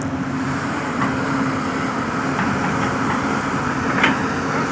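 Heavy construction machine's diesel engine running steadily. A single short knock sounds about four seconds in.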